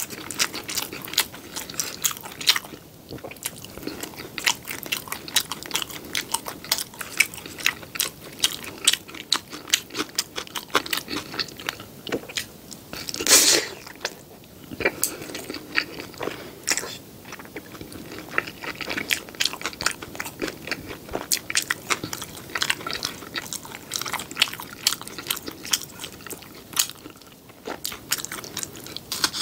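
Close-miked eating of crispy battered sweet and sour pork (tangsuyuk): a rapid, continuous run of crunches and wet chewing sounds, with one louder burst about 13 seconds in.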